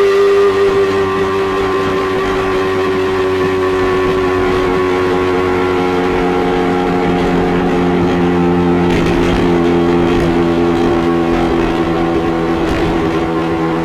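Yamaha R15 V3's 155 cc single-cylinder engine running through its stock exhaust, a steady note that slowly sinks in pitch. The owner finds this sound odd for the original exhaust and doesn't know the cause.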